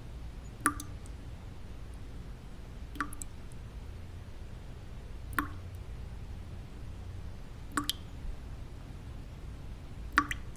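Single water drops falling and plinking, one about every two and a half seconds, five in all, over a steady low white-noise rumble.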